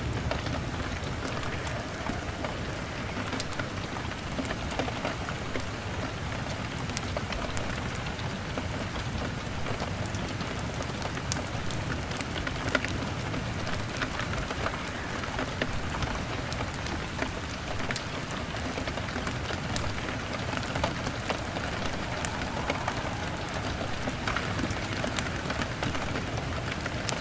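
Steady rain pattering on a window pane, with scattered sharp crackles and pops from a wood fire.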